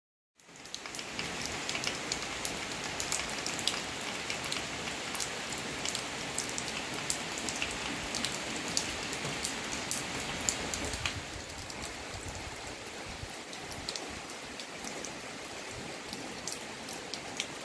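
Steady rain falling, with many separate drops ticking sharply against a surface over an even hiss. It starts abruptly about half a second in.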